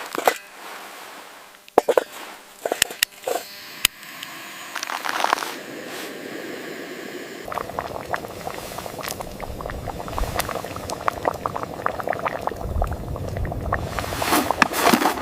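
A few sharp clicks and knocks, then, starting suddenly about halfway through, a steady rush of moving water with many small crackling ticks and a low rumble.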